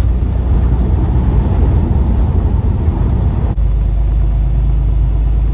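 Semi-truck cab noise while driving: a steady low engine and road rumble. About three and a half seconds in it changes abruptly to a smoother, deeper drone with less hiss.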